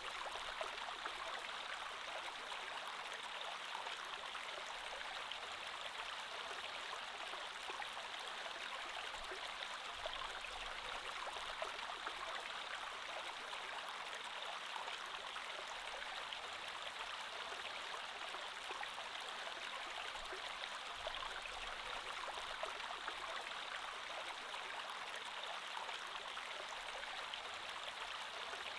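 Creek water flowing and burbling steadily over stones.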